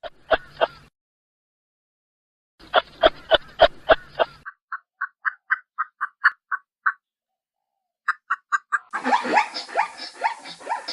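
Animal calls in several separate stretches: a few sharp calls, then short calls repeated about five times a second, then a rapid run of clipped high chirps, and near the end a dense burst of overlapping calls that slide down in pitch.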